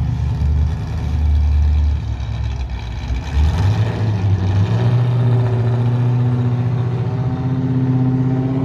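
Cammed 6.0-litre LS V8 (227/231 aftermarket cam) in a 2001 Camaro Z28 running with a choppy, uneven idle. About three seconds in its speed rises and settles at a higher, steadier note.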